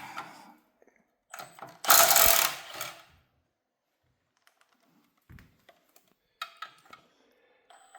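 Hand socket ratchet clicking on the bolts of a Chevy 350 V8 during teardown, in a loud burst about two seconds in, with lighter clicks and metal-on-metal sounds near the end.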